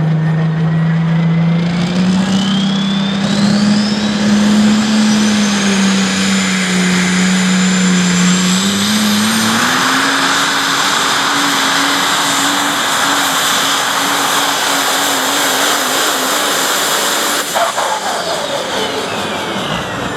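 Turbocharged pulling engine running at full throttle under load, its pitch stepping up twice while a high turbo whine climbs. Near the end it cuts off with a knock, and the turbo whine winds down.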